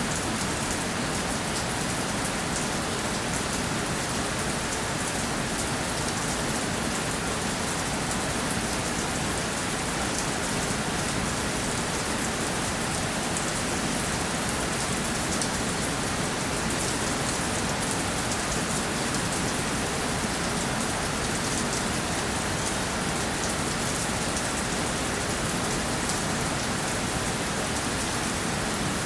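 Steady rainfall: an even, unbroken hiss with the fine patter of individual drops.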